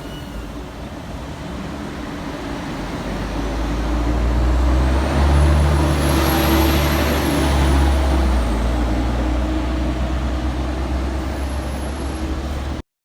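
Scania L113CRL bus with an Ansair Orana body, its diesel engine running as it pulls away and drives past. The low engine note builds to its loudest about halfway through and then eases, with a high whine that rises and falls in pitch.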